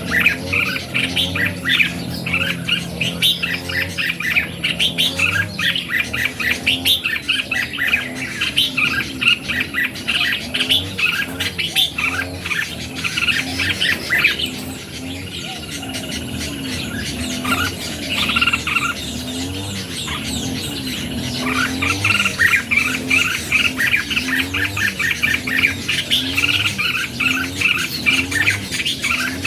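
Red-whiskered bulbuls singing and chattering: a dense, continuous stream of overlapping short chirps and warbled phrases, thinning briefly about halfway through. This is bulbul song used as a lure to excite caged and wild bulbuls.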